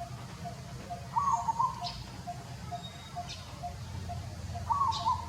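Outdoor animal calls: a regular string of short chirps about four a second, with a wavering call twice and thin high falling squeaks over a low steady hum.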